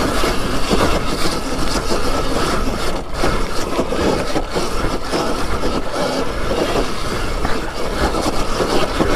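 Riding noise of an Alta Redshift electric dirt bike climbing a loose dirt hill with its power turned down: a loud, uneven rush of wind and tyre noise with no engine note.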